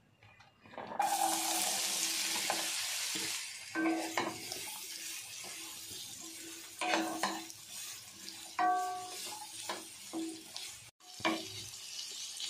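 Diced bitter gourd dropped into hot sesame oil about a second in, sizzling loudly at first and then more softly as it fries. A wooden spatula stirs it, scraping and knocking against the pan several times.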